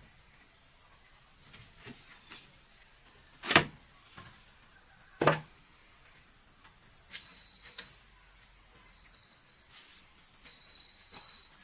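Crickets chirping steadily, with two sharp knocks about a second and a half apart near the middle and a few faint clicks.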